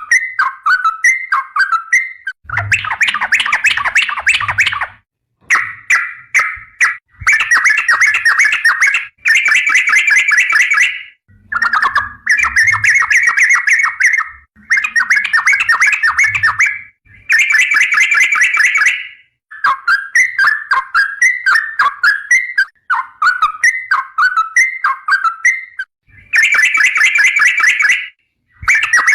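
Yellow-vented bulbul (trucukan) singing loudly in a run of rapid chattering phrases, each about one to two seconds long, separated by short pauses.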